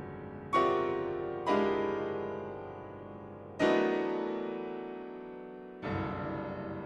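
Background music: slow solo piano chords, struck four times and each left to ring and fade.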